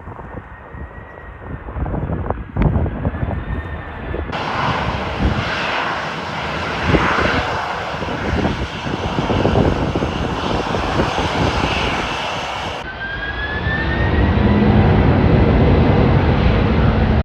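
Jet airliner engines whining, the pitch sliding as power changes, over a heavy low rumble of gusty wind on the microphone. The sound changes abruptly about four and thirteen seconds in, where separate clips are spliced together.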